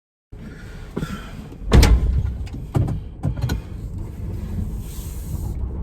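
A delivery van's door slamming shut about two seconds in, followed by a few lighter knocks, over the steady low rumble of the vehicle.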